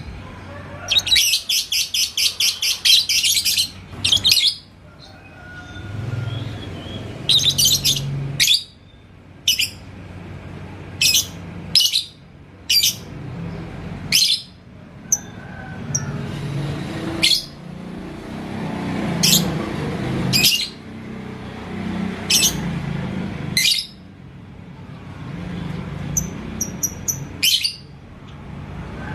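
Lovebird chattering: a fast rattling run of sharp high notes lasting about two seconds near the start, then single sharp high chirps every second or two.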